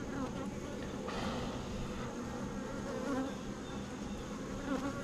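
Honeybees buzzing steadily around an open hive, a dense hum of many wings with single bees sweeping close past now and then. The colony is stirred up by the inspection.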